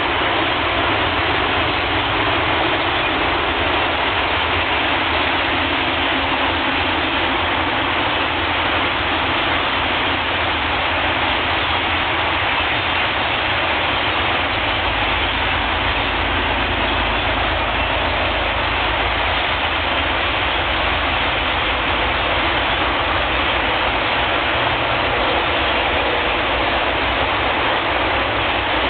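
A huge flock of common grackles calling all at once, making a loud, steady din of overlapping calls.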